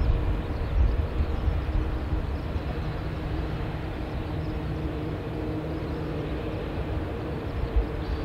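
Strong wind buffeting the microphone in gusts, with a jet airliner's engines running as a faint steady hum. The wind rumble is heaviest at the start and eases a little.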